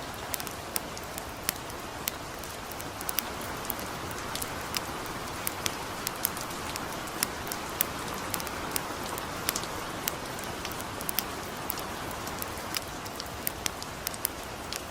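Steady hiss of light rain with irregular sharp crackles and pops from a campfire, several a second.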